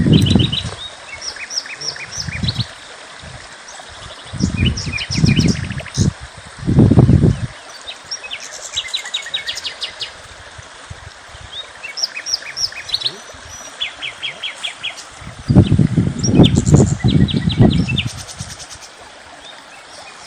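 Small birds chirping and trilling in short repeated phrases. Bursts of low rumbling noise come about 4 to 7 seconds in and again about 16 to 18 seconds in.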